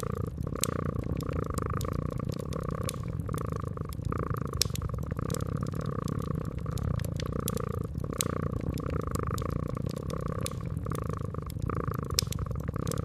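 Cat purring steadily, its purr swelling and fading with each breath, over a wood fire crackling with scattered sharp pops.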